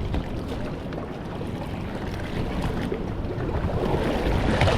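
Wind buffeting the microphone over the wash of surf, swelling louder near the end.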